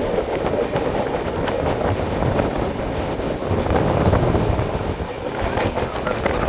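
Express passenger train running along the track, a steady rumble of wheels on rails with wind buffeting the microphone.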